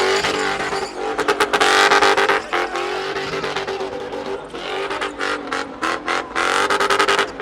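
Car engine held at high revs, its note breaking off briefly again and again as the power cuts in and out.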